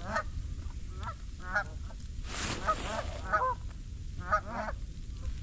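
A goose honking, a series of short calls repeated every second or so, over low wind rumble on the microphone.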